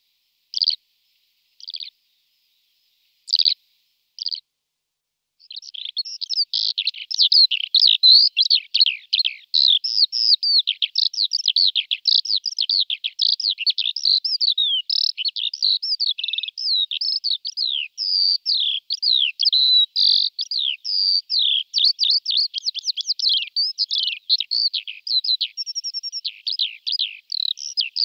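Eurasian skylarks calling and singing: a few short, separate high calls, then from about five seconds in an unbroken, fast stream of high chirps and trills.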